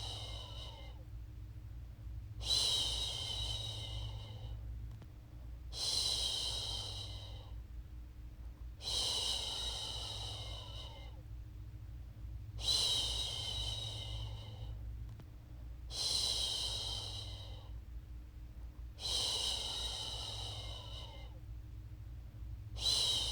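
A woman shushing a baby to sleep, a long soothing "shhh" about every three and a half seconds. Each one starts strongest and fades away, over a steady low hum.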